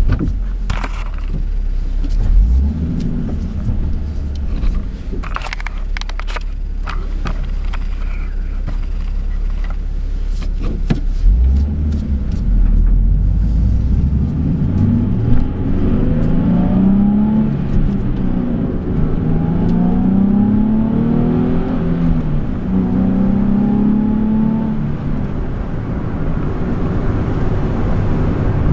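Nissan 370Z's 3.7-litre V6 heard from inside the cabin while driving, under a steady low rumble of tyres and road with a few sharp clicks. In the second half the engine revs up and eases off three times as the car accelerates and lifts.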